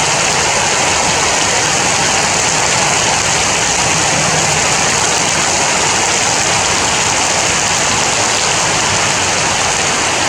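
Heavy rain falling, a loud, steady, dense hiss with no letup.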